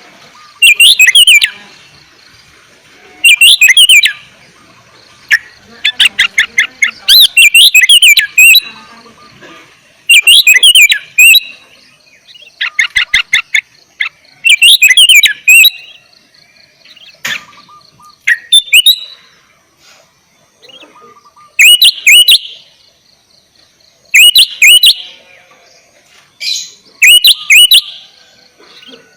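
Sooty-headed bulbul singing loud, short, bubbly phrases every two to three seconds, with a few rapid rattling trills in between.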